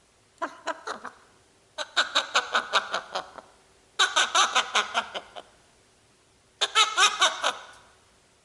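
African grey parrot making laugh-like cackling in four quick bursts, each a rapid run of short, bright staccato notes.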